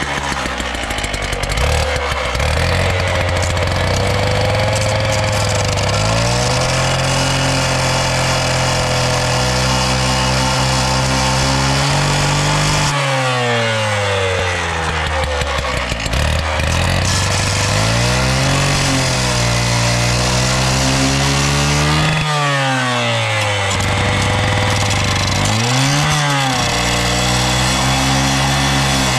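An engine running steadily loud, its pitch rising and falling as it is throttled and loaded, with sharp drops in speed about halfway through and twice more near the end.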